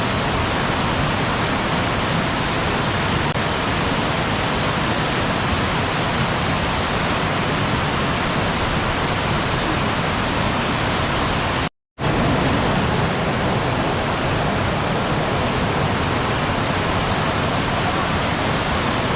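Waterfall: a steady, full rushing of falling water with no rhythm or tone, cutting out completely for a split second about twelve seconds in.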